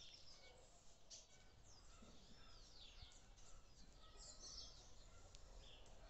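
Small birds chirping and calling faintly, with many short high notes and a few arching whistled glides, over a low background hum of outdoor noise.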